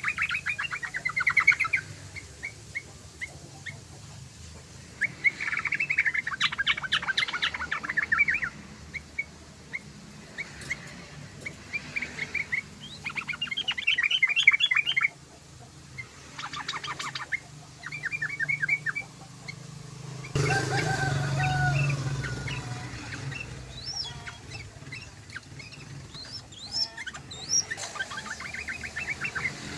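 Yellow-vented bulbul (trucukan) song: bouts of rapid, bubbling chattering notes, each lasting one to three seconds and repeating with short pauses. About two-thirds through, a louder, noisier stretch with lower sliding notes breaks in for a couple of seconds. A faint low hum runs underneath throughout.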